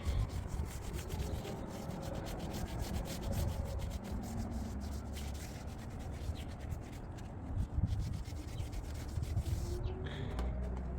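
Scrubbing by hand: many quick rubbing strokes on a surface.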